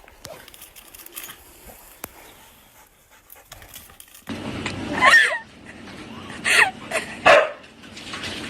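A dog giving three short, high-pitched calls with wavering pitch, about a second apart in the second half, after a few seconds of faint sound.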